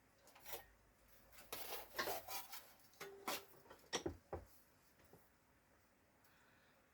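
Light knocks and clinks of sheet metal and tools being handled at a bench vise, in irregular clusters, with a brief squeak about three seconds in.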